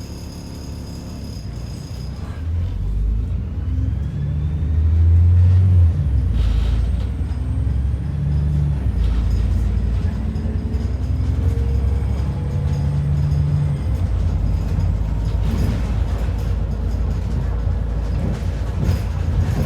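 ADL Enviro 400 double-decker bus heard from inside, its diesel engine pulling away and building up speed, with the engine note stepping through gear changes. A few brief rushes of noise come through over the engine.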